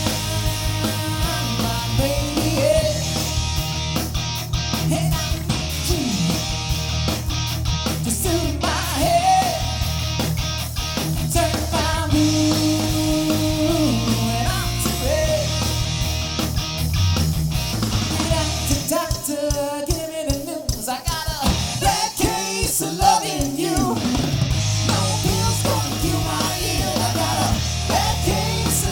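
Live rock band playing electric guitar lead lines over bass and drums. The bass and low end drop out for a few seconds about twenty seconds in, then come back.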